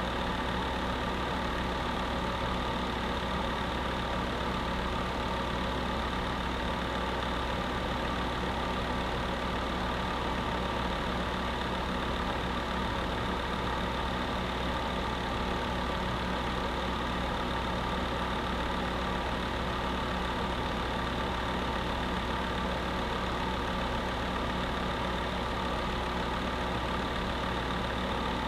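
Electric space heater running steadily: a constant low hum under an even rushing noise, with no change throughout.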